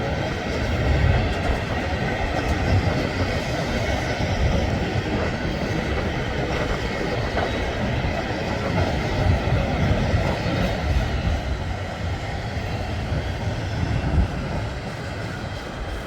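Norfolk Southern freight train cars rolling past at steady speed, with a continuous rumble and the clatter of wheels over the rail.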